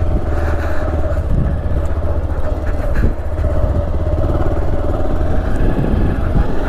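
Motorcycle engine running steadily under way on a rough gravel road, with a constant low rumble.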